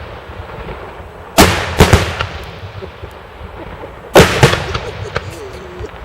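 Daytime fireworks detonating in loud bangs, each rolling off in echo. There is a pair about a second and a half in and another pair at about four seconds, with light crackling in between.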